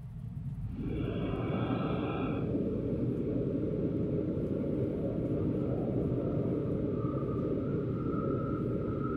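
Passenger train running on the rails: a steady rumble that grows louder about a second in. A brief higher whine rides over it, and a steady whine comes in near the end.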